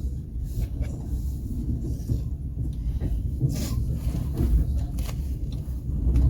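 Passenger train running, heard from inside the carriage: a steady low rumble with a few scattered knocks and scrapes.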